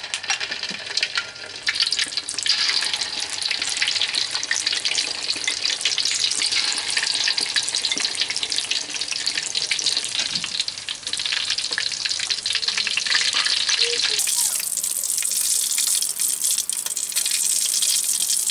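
Egg-coated canned sardine pieces deep-frying in hot oil in a wok: a dense, steady sizzle and crackle of many tiny pops.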